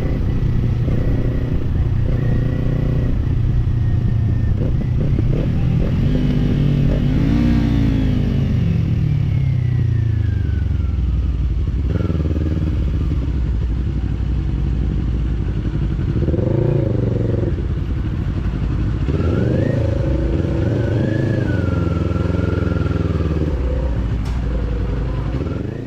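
Kawasaki parallel-twin motorcycle engine running under way, its pitch climbing about six seconds in and then falling steadily for a few seconds, with more rises in revs near the middle and later on.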